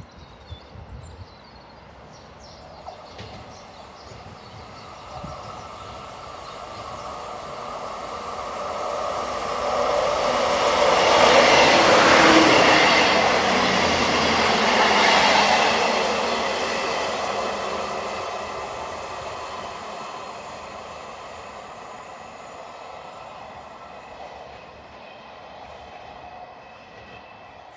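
Great Western Railway passenger train approaching, running past close by along the platform, and fading away into the distance. It is loudest about halfway through, with a steady high whine as it goes by.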